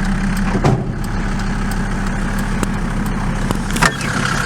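Mercedes W124 250D's turbocharged OM602 five-cylinder diesel engine running steadily, with a change in the engine note near the end.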